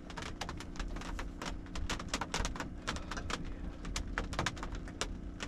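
Rain falling on a pickup truck's camper shell roof, heard from inside: irregular drops ticking sharply, several a second, over a low steady hum.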